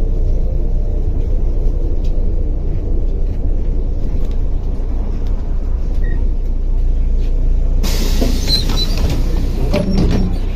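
MAZ-105 articulated bus engine running with a steady low rumble. About eight seconds in, a loud hiss of released compressed air starts suddenly.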